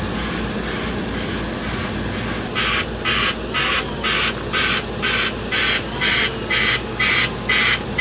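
Heavy diesel truck engine running, joined about two and a half seconds in by a pulsing back-up alarm of the hissing, white-noise kind, beeping in an even rhythm as the truck reverses.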